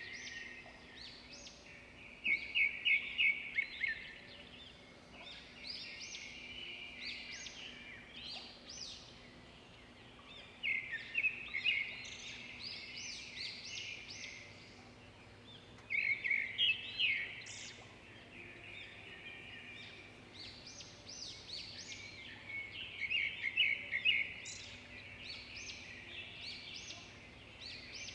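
Swiftlets twittering: high chirps and rapid trills, swelling into louder bursts of about two seconds every six seconds or so. A faint steady hum runs underneath.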